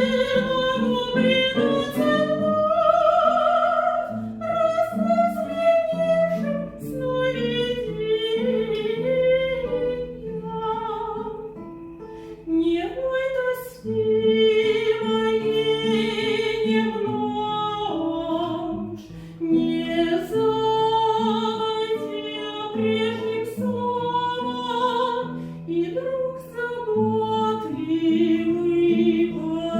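A classical-style singer performing a romance with vibrato over an instrumental accompaniment of sustained chords.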